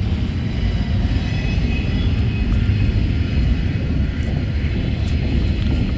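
Steady low rumble of a stopped freight train's diesel locomotives idling, with a faint high hum above it.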